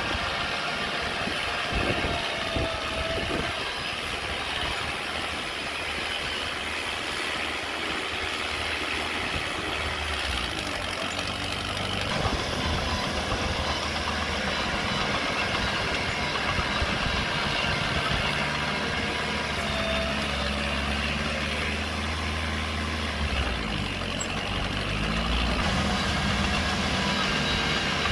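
Diesel engines of heavy earthmoving machinery running steadily, with the engine note rising as one revs up about three quarters of the way through.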